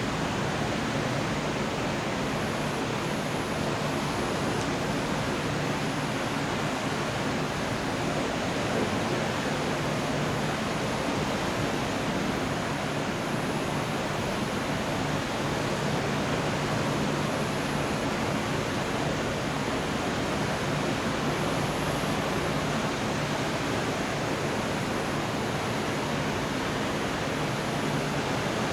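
Steady heavy rain during a thunderstorm, an even rushing hiss with no thunder claps. A faint high pulsing repeats about once a second.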